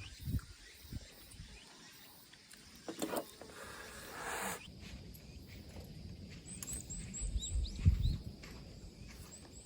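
Outdoor ambience: irregular low rumbling thumps, a brief rush of noise about three seconds in, then a run of faint, high, quick chirps from a small bird a few seconds later.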